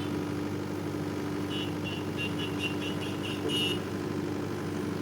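Sany SY80C excavator's diesel engine running steadily at work, a constant drone with a steady hum. For a couple of seconds around the middle, a quick run of short high-pitched squeaks sounds over it.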